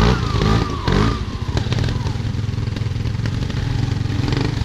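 Motorcycle engine running at a steady speed. A voice is briefly heard over it in the first second or so.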